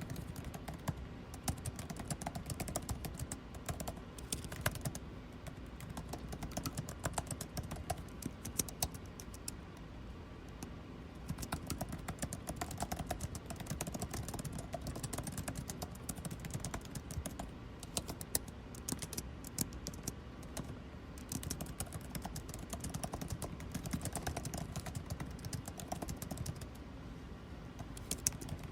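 Continuous typing on a computer keyboard, quick irregular runs of key clicks with brief pauses, over the steady hum of air conditioning.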